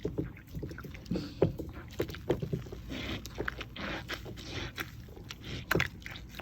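Water splashing and squelching as a small wet plush toy is squeezed and scrubbed by hand, in irregular short bursts.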